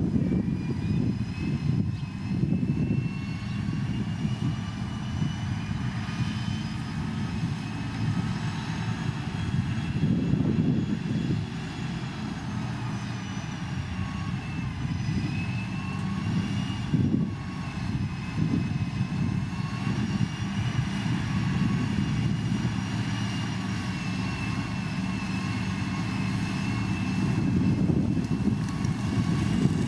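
Heavy diesel road-construction machine, a motor grader or road roller, running steadily under load. Its low engine drone is joined by a fainter, higher whine that wavers slowly in pitch.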